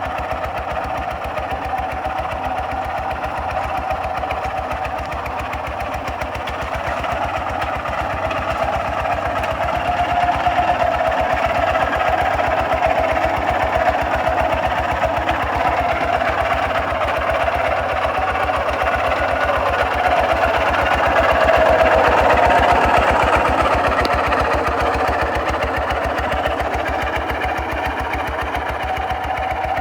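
Single-cylinder diesel engine of a Kubota RT 140 DI walking tractor running steadily with a fast, even chugging beat while plowing. It grows louder for a few seconds about a third of the way in and again about two-thirds of the way in.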